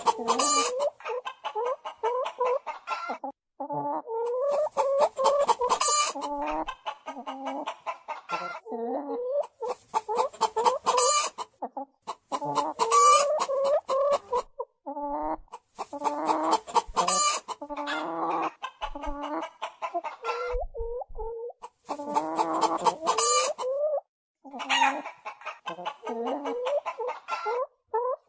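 A large flock of hens and roosters clucking and calling together, many short overlapping clucks at once. It comes in stretches of a few seconds broken by brief silences.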